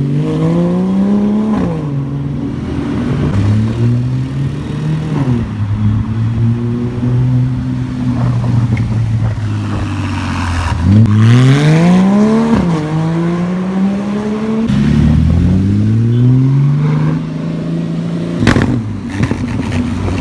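Porsche 987 Cayman S flat-six engine revving repeatedly, its pitch climbing and dropping with each rev, the biggest rev about eleven seconds in. A single sharp crack near the end.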